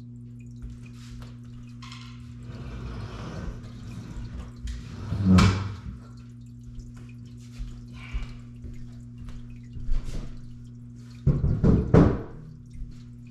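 Knocks and clunks of parts being handled while a refrigerator is taken apart: one loud knock that rings on briefly about five seconds in, a lighter one around ten seconds, and a quick run of knocks near the end, over a steady low hum.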